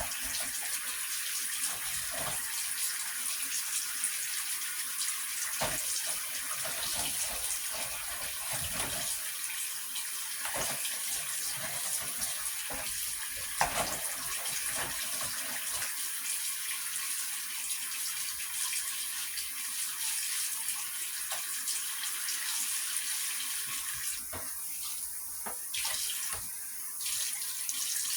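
Steady running water, with scattered light clicks and knocks.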